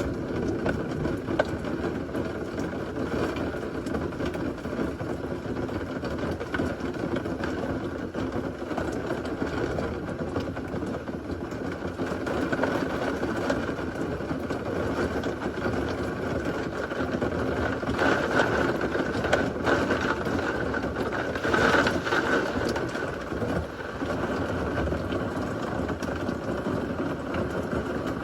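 Heavy thunderstorm rain falling steadily, with a low rumble underneath. It swells louder and brighter for a few seconds about two-thirds of the way through.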